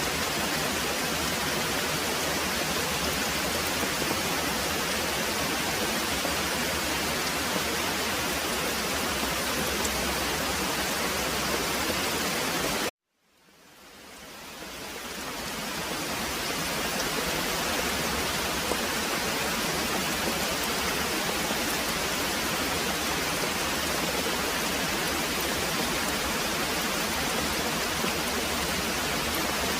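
Very heavy rain pouring steadily as an even hiss. About 13 seconds in it cuts out abruptly to silence and fades back in over a few seconds, as at a loop or edit point in the recording.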